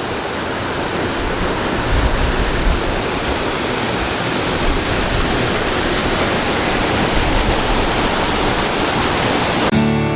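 Waterfall rushing steadily, heard up close. Guitar music starts suddenly near the end.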